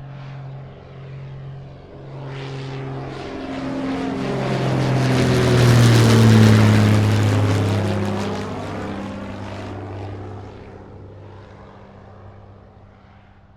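Propeller airplane flying past: its engine and propeller sound swells to its loudest about six seconds in, drops in pitch as it passes, then fades away.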